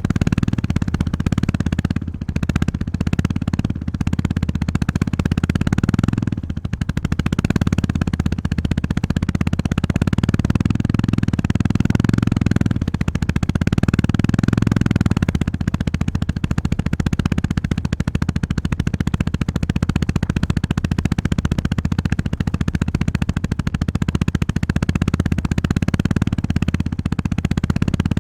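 Honda 350 single-cylinder motorcycle engine running under way on a forest track. Its low, pulsing exhaust note rises and eases with the throttle, dropping briefly about 2 s and 6.5 s in as the throttle is rolled off.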